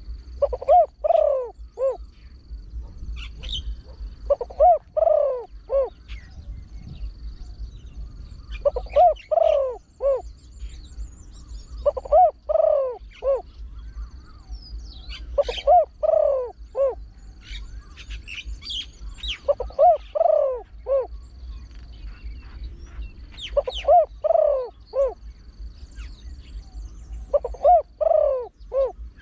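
Spotted dove cooing: repeated phrases of about four low coo notes, about every four seconds, in the rapid calling style that breeders call a one-kuk toss. Other small birds chirp faintly and higher, and a thin high buzz comes and goes.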